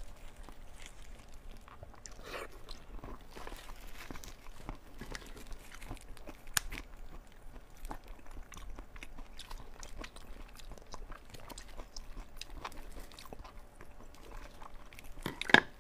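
Close-miked wet chewing and mouth sounds from eating glazed braised pork belly, with small clicks and snips as scissors cut the string tied round a pork cube. A sharp click near the end is the loudest sound.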